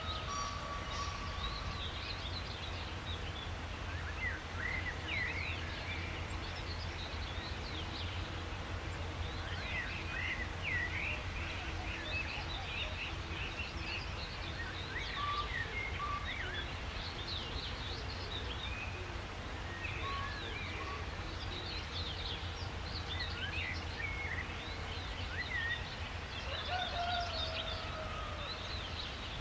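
Several songbirds chirping and calling, many short quick notes overlapping, with a longer falling whistle near the start and again near the end, over a steady low background rumble.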